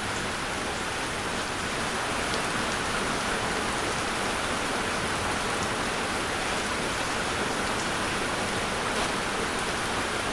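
Steady rain falling, an even continuous hiss that does not change.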